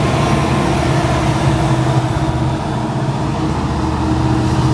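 Freight train rolling past close by: a steady diesel engine drone over the rumble of the cars.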